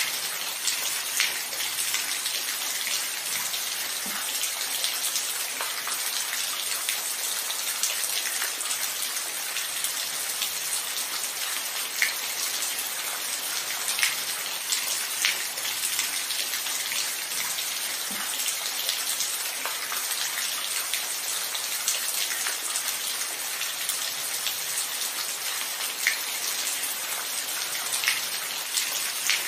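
Steady rain falling: an even hiss with individual drops ticking sharply now and then.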